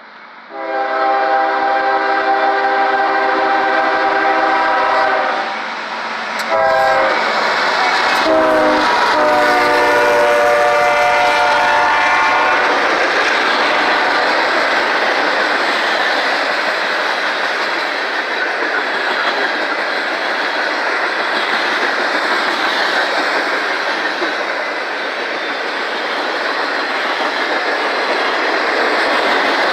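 CSX freight locomotive's multi-chime air horn sounding a long blast, then more blasts. Its pitch drops partway through as the lead GE ES40DC passes. The horn gives way to the steady rumble and clickety-clack of the manifest train's freight cars rolling by.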